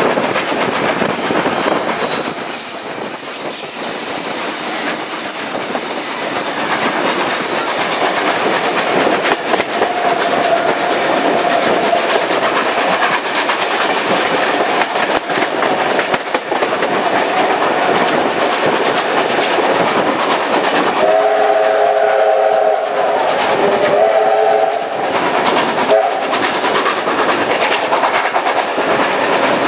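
Passenger carriage running along the track, heard from an open window: steady wheel and rail noise with clickety-clack and wind. About 21 seconds in, a train whistle sounds a chord of several notes in two blasts lasting about four seconds in all.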